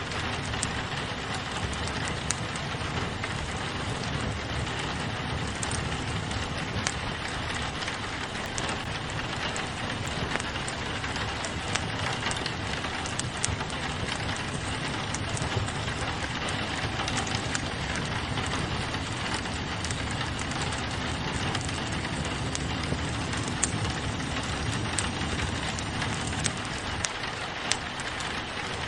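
Steady rain falling on a window pane mixed with a wood fire crackling, small sharp pops and ticks scattered over the even hiss of the rain.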